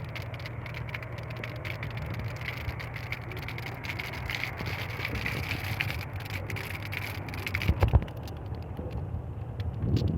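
Heavy rain falling, a dense hiss of many drops pattering over a steady low rumble, with a few louder low thumps about eight seconds in. The highest part of the hiss thins near the end.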